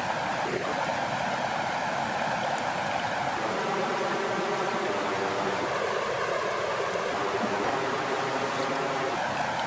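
Steady rush of flowing water, an even wash with no breaks or swells.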